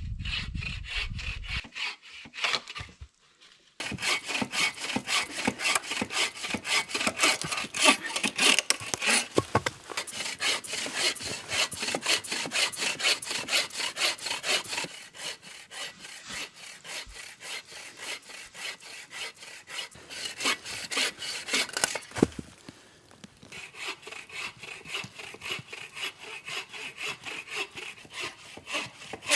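Hand saw cutting wood in rapid back-and-forth strokes. The sawing stops briefly a few seconds in and again about two-thirds through, and is quieter in the second half.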